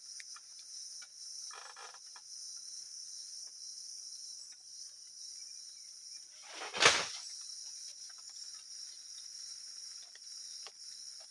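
Night insects, crickets among them, shrilling steadily in a forest. About seven seconds in, a single loud noise swells and dies away in under a second, and there is a brief softer rustle near the start.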